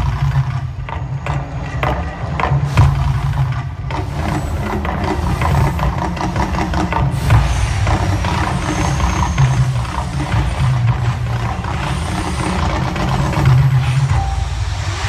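The Mirage's volcano show in full eruption: a loud, deep rumble with many sharp drum-like hits and crackle over it.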